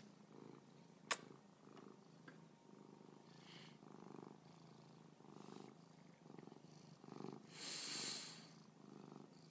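A domestic cat purring faintly close to the microphone. A sharp click comes about a second in, and a short, louder rush of hissy noise near the end.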